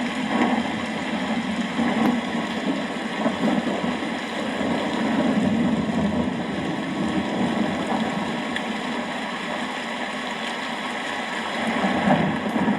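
Rain falling steadily, with a low rumble of rolling thunder that swells in the middle and again near the end.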